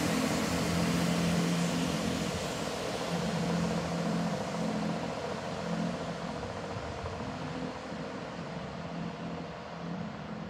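Diesel multiple unit train moving away down the line: its engine hum, which comes and goes, and the rumble of its wheels on the rails fade steadily as it recedes.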